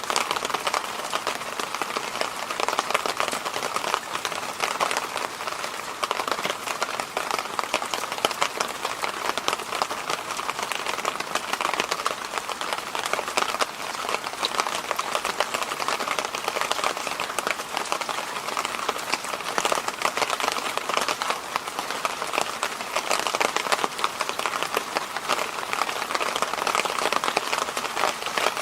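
Electric fan running steadily: an even, unbroken rush of air.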